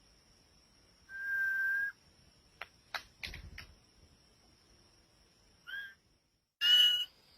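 Bird whistling: one steady held whistle about a second in, a short call later, and a louder call with several notes near the end, with a few sharp clicks in between.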